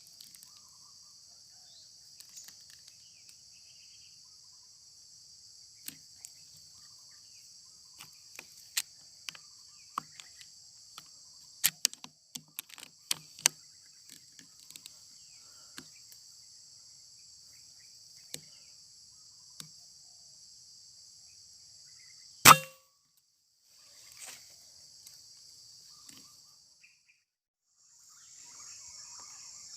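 A single loud, sharp rifle shot about two-thirds of the way through, over a steady high chorus of insects, with scattered light clicks and taps before it.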